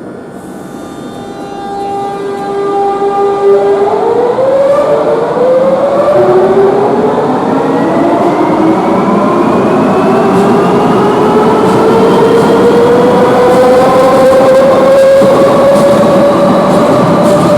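Metro de Madrid Line 5 train pulling away. Its traction motors hold a steady hum for a few seconds, then whine rising in pitch, first in a quick step and then smoothly, as the train accelerates and grows louder.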